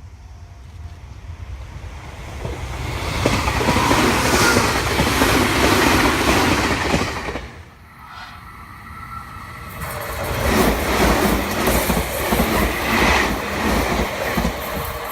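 Meitetsu electric train running past, wheels clattering on the rails. It grows loud over the first few seconds, drops off sharply about eight seconds in, then turns loud again for the rest.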